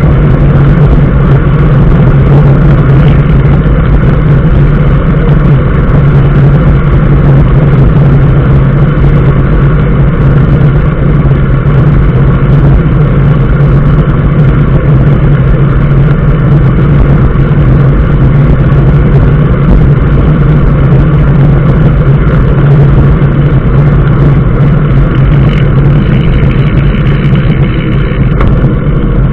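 Steady vehicle travel noise: an engine drone and road noise running evenly, with no change in speed.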